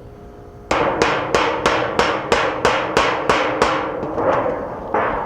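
Hammer blows on the sheet-metal squirrel guard: about ten quick strikes, roughly three a second, each with a metallic ring, then a couple of softer blows near the end.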